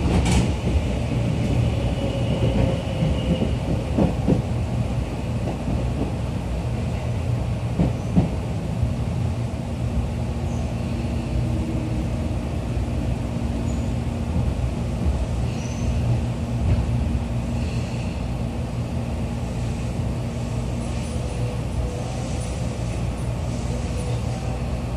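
Running noise heard inside a Tobu 9000-series commuter train car: a steady rumble of wheels on rail, with a few sharp knocks in the first eight seconds. A steady low hum joins about nine seconds in.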